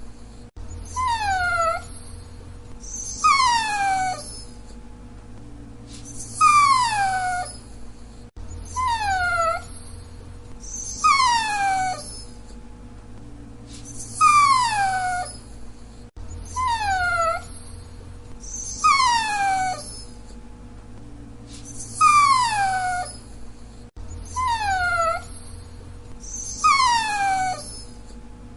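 Dachshund whining: short, high whines, each falling in pitch, coming about every one and a half to two seconds in a pattern that repeats about every eight seconds. A faint steady hum runs underneath.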